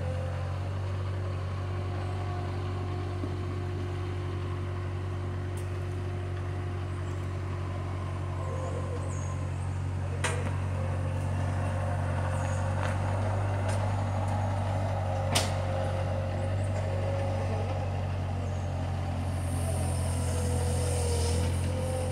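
Bobcat skid-steer loader's engine running steadily, a little louder in the second half, with several sharp knocks in the second half, the loudest about two-thirds of the way through.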